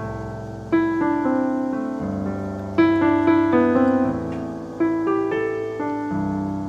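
Background music: a piano playing sustained chords over a low bass note, with fresh chords struck about every two seconds.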